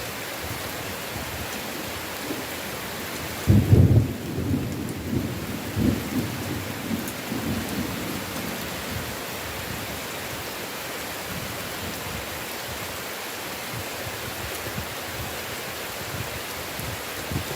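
Heavy rain falling steadily in a forest. About three and a half seconds in, a loud clap of thunder breaks out and rumbles on in waves for several seconds before fading back under the rain.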